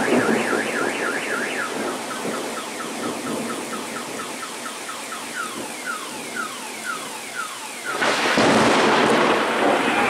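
Car alarm cycling through its tones, a fast up-and-down warble, then rapid chirps, then slower falling whoops, over steady rain. A loud clap of thunder breaks in about eight seconds in and drowns it out.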